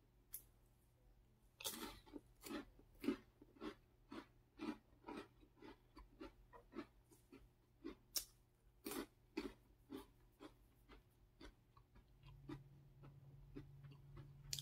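A person chewing a dry, crunchy snack: about two crisp crunches a second that grow softer as the mouthful is eaten down. A low steady hum comes in near the end.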